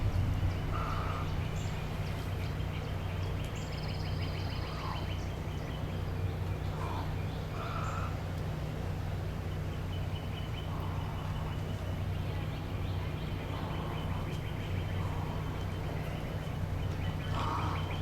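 Birds calling in a wading-bird breeding colony: short calls repeated every one to three seconds, with a fast ticking chatter and a brief higher note about four seconds in, over a steady low hum.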